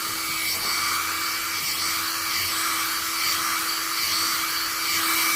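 One-step hair dryer and styler hot air brush running: a steady rush of blown air over a constant motor hum, as the brush is drawn through the hair.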